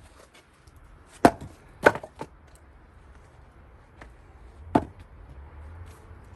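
Gränsfors Bruk axe striking cherry-wood rounds as they are split for firewood: two sharp blows a little over a second in, about half a second apart, with a lighter knock just after, then one more blow later on.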